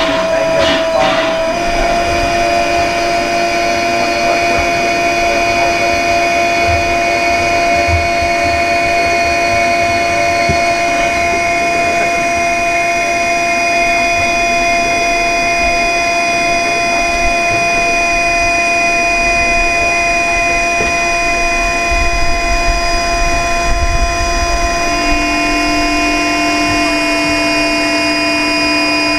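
Steam locomotive giving off a steady whine made of several held tones at once, over a low rumble; the tones shift slightly about a second and a half in and again near the end.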